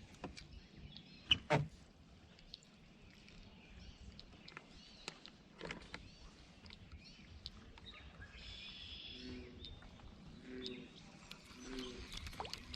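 Birds chirping and calling in scattered short notes. Two sharp knocks about a second and a half in, and a short low call repeated several times near the end.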